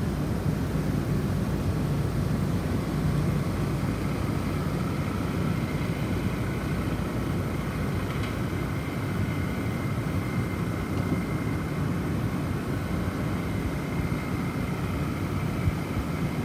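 Snowstorm wind blowing steadily with a deep, low rumble, with faint high tones drifting in and out above it.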